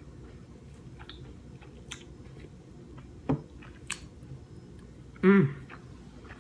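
Close-up chewing of king crab meat, with a few sharp clicks. A short vocal sound about five seconds in is the loudest moment.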